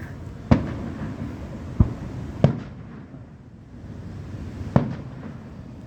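Fireworks shells bursting in the air: four sharp bangs, each trailing a short echoing rumble, with a lull of about two seconds between the third and fourth.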